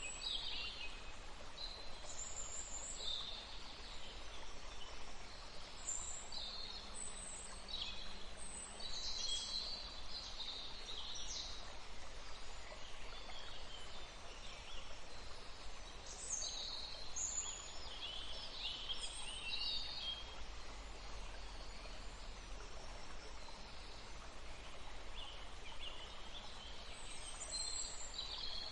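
Steady rush of flowing water, with small birds chirping and twittering over it in several bursts of high, quick calls.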